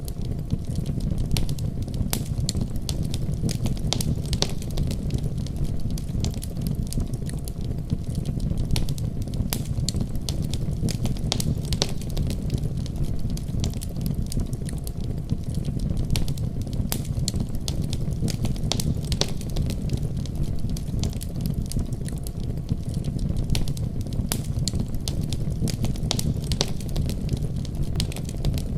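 Wood fire burning in a fireplace: a steady low rumble of the flames with frequent irregular pops and crackles.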